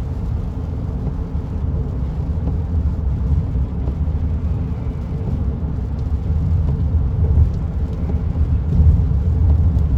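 Steady low road and engine noise inside a moving car, with no sudden events.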